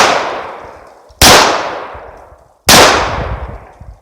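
Taurus 1911 pistol firing two shots about a second and a half apart, each sharp crack trailing off slowly, part of a string fired through one magazine.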